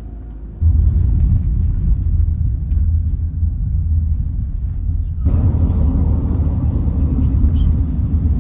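Minibus driving, heard from inside the cabin: a steady low engine and road rumble. A louder hiss of tyre and road noise joins about five seconds in.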